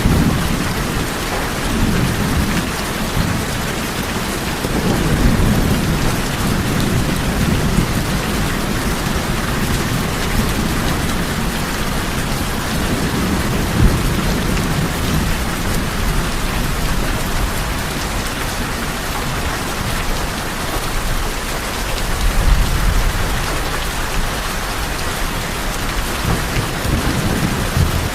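Steady rain falling on tin roofs, an even hiss, with low rolling thunder that swells at the start, a few seconds later, and again past the two-thirds mark.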